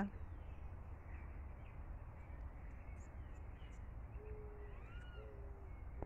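Faint steady outdoor background noise, with a bird giving two low, steady calls about half a second each, around four and five seconds in, and fainter higher notes around them.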